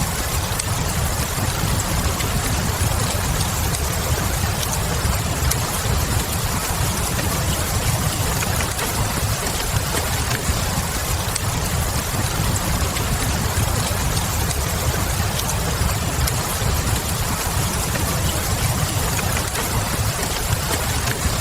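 Wood fire crackling with small scattered pops over a steady wash of rain and a low rumble.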